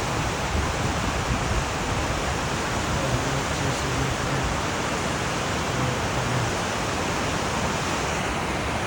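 Rushing whitewater of a river rapid running high: a steady, unbroken rush of water.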